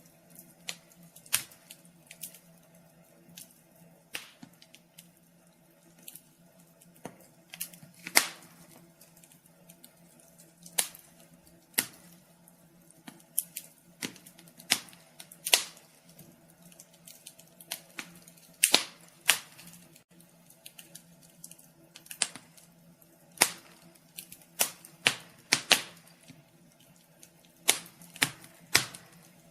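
Wood fire crackling in a fireplace: irregular sharp pops and snaps, one every second or two, over a faint steady low hum.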